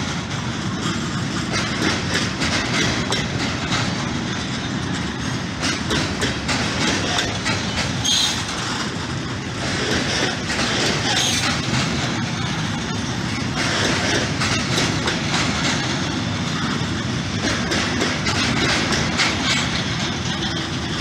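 Covered freight wagons of a long Grup Feroviar Român freight train rolling past at close range. The wheels clatter over the rail joints in a continuous clickety-clack.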